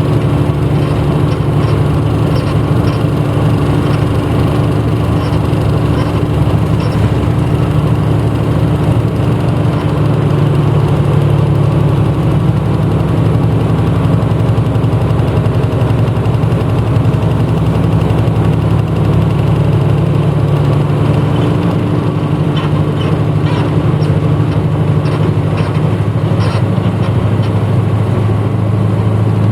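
Interior running sound of a 1994 Hino Blue Ribbon U-HT2MPAA city bus: a steady diesel engine drone with road noise, heard from a passenger seat. The engine note shifts slightly about ten seconds in and again around twenty seconds in, with faint rattles throughout.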